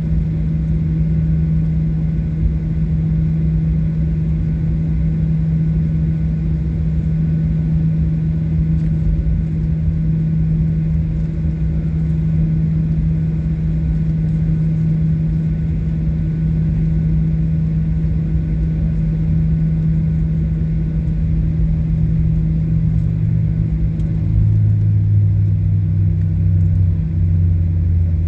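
Boeing 737-800 cabin noise with the CFM56 engines at low power: a steady hum over a low rumble. About 24 seconds in, a second, lower tone comes in and the sound gets a little louder.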